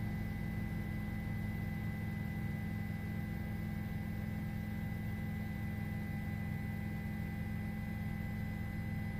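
A steady low hum with a faint high whine and light hiss over it, unchanging throughout.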